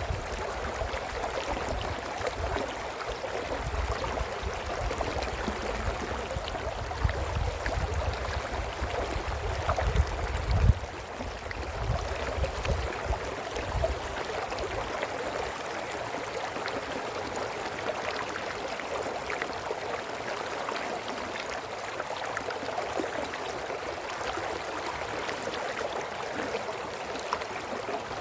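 Small brook flowing over stones: a steady, even babble of running water. A low rumble sits under it through the first half and dies away about halfway through.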